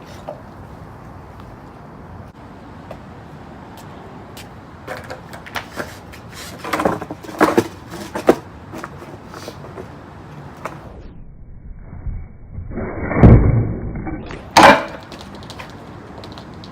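Skateboard tricks: scattered sharp clacks of the board popping and landing, then the wheels rolling with a rumble that builds to a loud board slam near the end.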